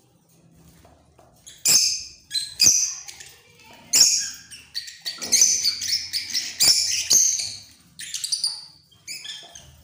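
Birds calling: a run of loud, high-pitched chirps and squawks that starts about one and a half seconds in and goes on in short bursts with brief gaps.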